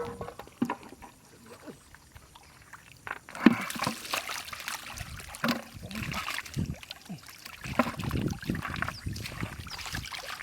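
Shallow water splashing and sloshing in irregular strokes, becoming louder and busier about three and a half seconds in.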